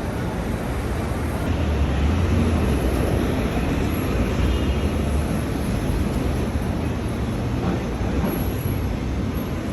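City street noise with the low rumble of a passing vehicle, swelling about two seconds in and easing off after about six seconds.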